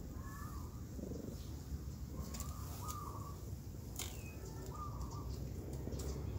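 A bird calling outdoors in short repeated phrases, about one every two seconds, over a steady low rumble, with a few faint clicks.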